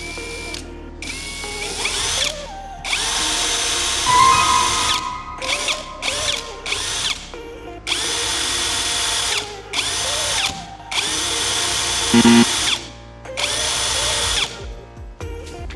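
Electric drill run in repeated bursts of one to two seconds with short pauses between them, its motor speeding up at the start of each run.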